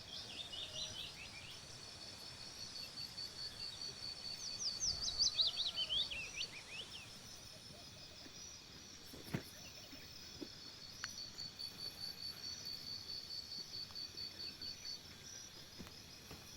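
Birds calling: a fast, even run of repeated high notes, with a burst of quick chirps about five seconds in, the loudest part. A single click near the middle.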